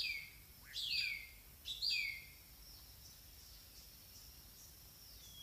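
A bird calling three times about a second apart, each call a quick upward sweep followed by a falling whistle. After the calls stop, a faint steady high-pitched insect drone remains.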